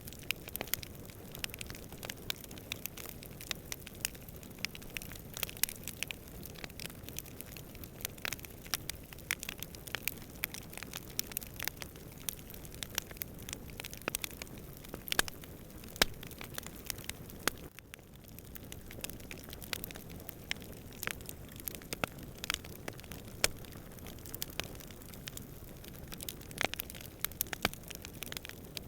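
Wood campfire crackling, with frequent sharp pops and snaps at irregular intervals over a low, steady rumble. The background briefly drops away about eighteen seconds in, then builds back.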